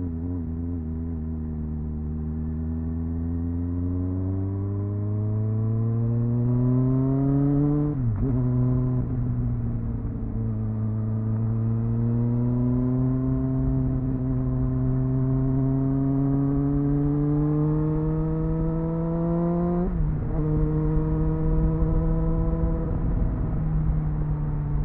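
Triumph Speed Four's 599cc inline-four engine on its stock exhaust, heard onboard, pulling up through the revs with two upshifts, about 8 seconds in and about 20 seconds in, then holding steady. Low wind rush runs under the engine.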